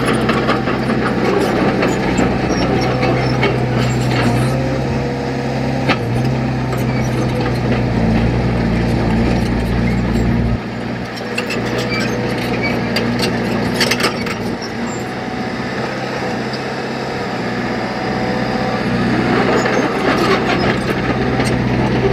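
Diesel engine of heavy earthmoving machinery running steadily, with scattered knocks and clanks. About ten seconds in, the deepest rumble drops away and the engine note changes.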